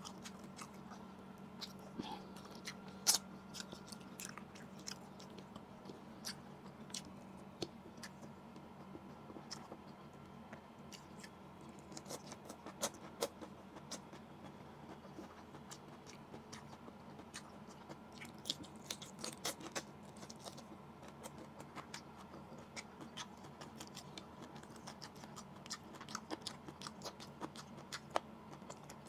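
Close-miked mouth sounds of a person eating grilled fish and rice by hand: chewing with many small sharp clicks scattered throughout. A faint steady low hum underneath.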